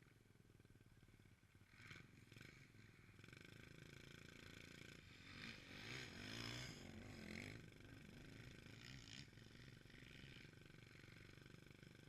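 Faint motocross bike engine running, growing louder and rising and falling in pitch about five to seven seconds in, then fading back.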